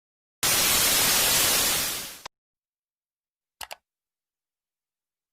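A burst of static-like hiss, about two seconds long, that fades out and ends on a click. A quick double click follows about three and a half seconds in.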